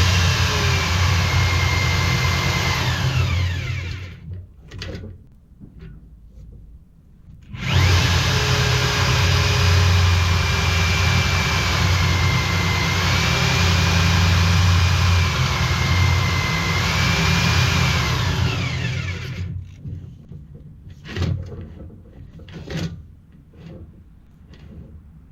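Power-tool motor spinning a sandpaper head down the sewer pipe to tidy up the broken section before relining, running steadily with a low hum and a high whine. It stops after about three seconds, starts again a few seconds later and runs for about ten seconds, then a few knocks and clicks.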